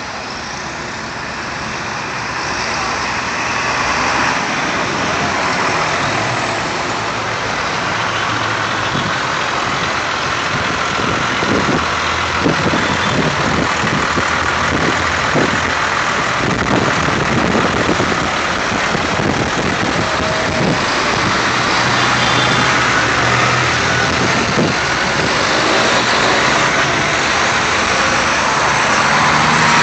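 Vintage tractor engines running as a line of tractors drives past, a loud, steady mix of engine noise.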